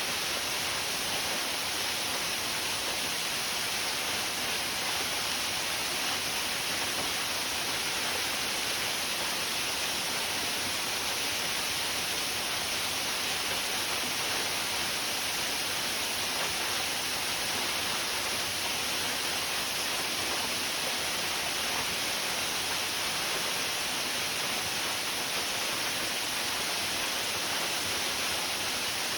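Waterfall: a steady, unchanging rush of falling water, heavy in hiss and light in bass.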